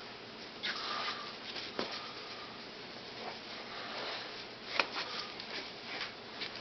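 Faint rustling and handling noise with scattered light clicks and knocks; the sharpest click comes nearly five seconds in.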